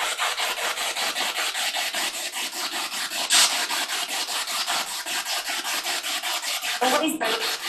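Spirit box radio scanner sweeping through stations, giving a steady hiss of static chopped into rapid, evenly spaced pulses, with a short voice-like radio fragment about seven seconds in.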